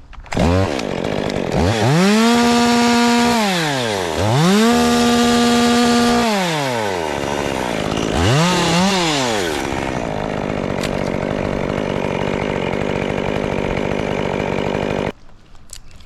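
Chainsaw revved up to full throttle and held for about two seconds, twice, then a shorter rev about eight seconds in, before running lower and cutting off abruptly near the end.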